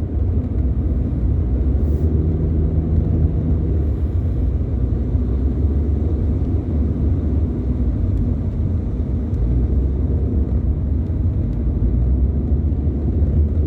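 Steady road noise inside a moving car's cabin: a low rumble of tyres and engine, with a faint engine hum in the first few seconds.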